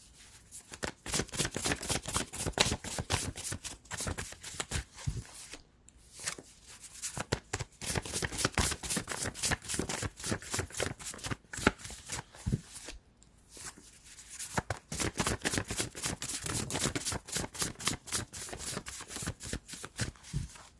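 Deck of tarot cards being shuffled by hand, a fast crackle of card edges with short pauses about six and thirteen seconds in.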